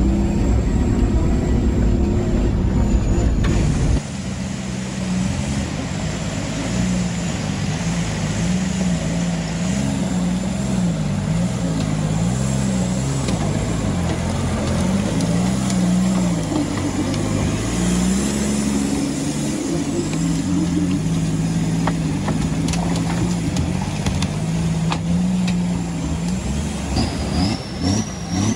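Off-road 4x4 engines working at low speed: a loud engine rumble heard from inside the cab for the first few seconds, cutting off abruptly, then an engine revving up and down under load as a lifted 4x4 crawls over rocks in a creek bed.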